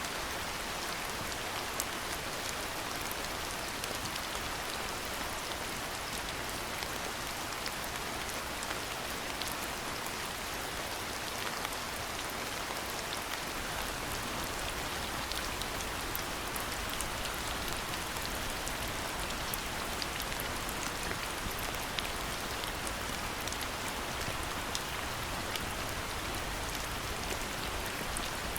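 Steady rainfall, with many small ticks of single drops landing close by throughout.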